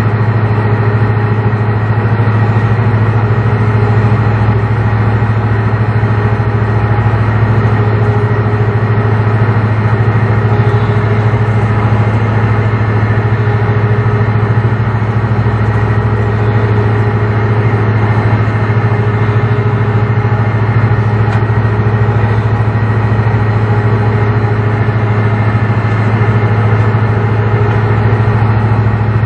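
A heavy engine running steadily at a constant speed, a deep, unchanging hum with no revving.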